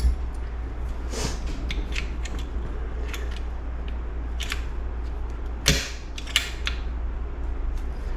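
Scattered metal clicks and clinks of hand tools and small engine parts being handled during engine assembly, the loudest a pair near the end, over a steady low hum.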